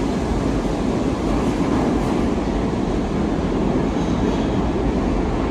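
R68 subway train running out of the station, a steady rumble of wheels on rail.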